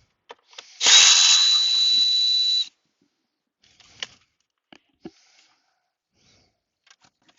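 A power tool runs for about two seconds, a steady hiss with a high whistling tone, then stops abruptly; a few faint clicks and knocks of parts being handled follow.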